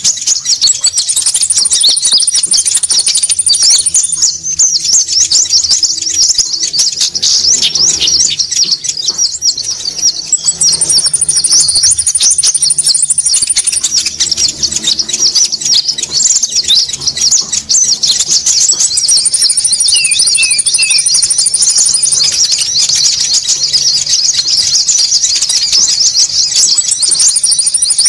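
Bird-lure recording of many small songbirds chattering densely and without pause, the busy 'ribut' lure call used to draw small birds such as konin. A thin high trill of about three seconds comes back roughly every eight seconds, which shows that the track is looped.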